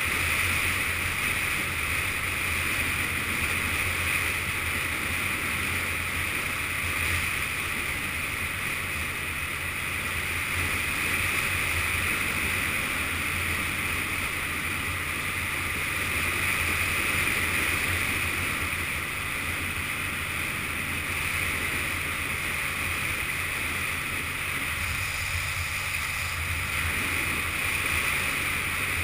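Yamaha FZS600 Fazer inline-four engine running at a steady pace under way, mixed with constant wind rush over the camera.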